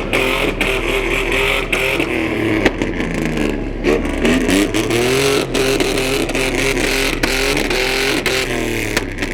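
Car engine revving hard, its pitch swinging up and down again and again, with a few sharp cracks. Very loud up close, enough that a bystander thinks his eardrums burst.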